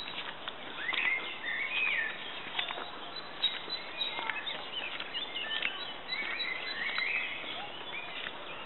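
Songbirds singing: several short warbling, chirping phrases over an outdoor hiss, with faint clicks of footsteps on a dirt path.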